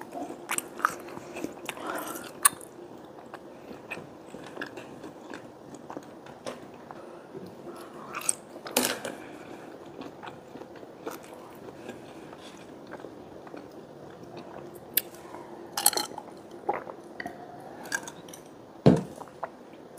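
A person chewing and biting food close to a clip-on microphone, with wet mouth clicks and a few sharper crunchy clicks. Near the end there is a single loud low thump.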